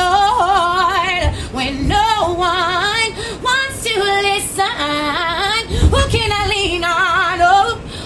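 A woman singing wordless gospel runs with a wide, wavering vibrato, sliding quickly up and down in pitch; only her voice is heard.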